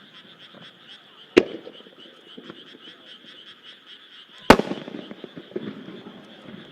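Two aerial firework shells bursting about three seconds apart, the second louder and followed by a trail of smaller crackles. Under them runs a steady chorus of frogs calling with a rapid, even pulsing.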